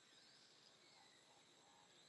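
Near silence: faint outdoor ambience with a steady high insect-like tone and a few faint high chirps.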